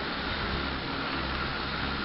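Rotors of a 10-litre agricultural spraying multicopter drone whirring steadily in flight.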